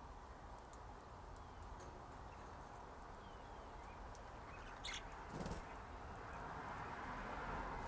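Pet budgerigars chirping faintly, with scattered soft clicks and one sharper short chirp about five seconds in.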